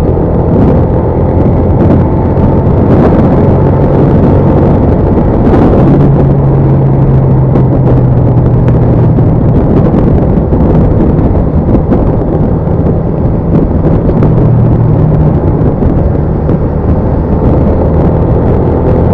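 Motorcycle riding on the road: a steady engine hum under heavy wind and road noise on the microphone, the engine note shifting slightly a few times.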